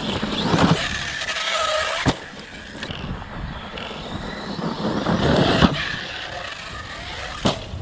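Arrma Outcast 6S EXB RC stunt truck being driven: a steady rushing noise with its brushless motor whining up and down under the throttle. Sharp knocks of hits or landings come about two, five and a half and seven and a half seconds in.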